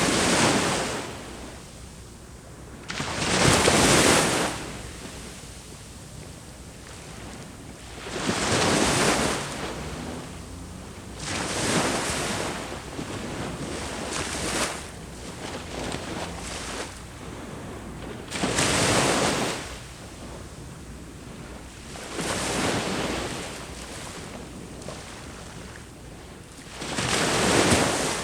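Sea waves breaking on the shore: about eight surges of rushing surf, each lasting around a second, every three to four seconds over a steady low wash of water.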